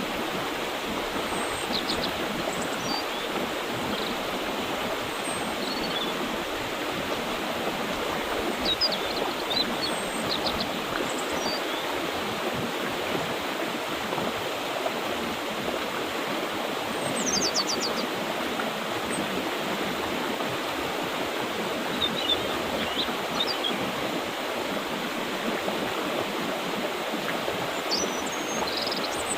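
Mountain river water rushing steadily over rocks, with short, high bird chirps breaking in every few seconds.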